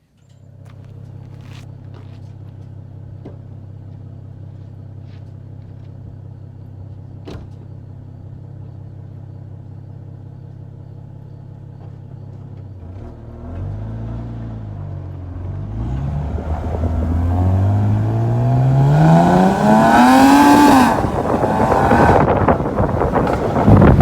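2007 BMW 328i's N52 inline-six, breathing through aftermarket headers with the resonator and cats deleted and the stock muffler, idling steadily. About halfway through it is blipped a few times, then revved in one long climb that peaks near the end and drops off, with more revving after it.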